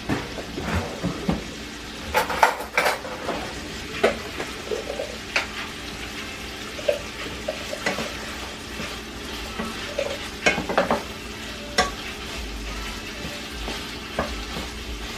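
Chicken pieces sizzling as they fry in oil and butter in a frying pan, with a utensil clicking and knocking against the pan about a dozen times as the pieces are stirred.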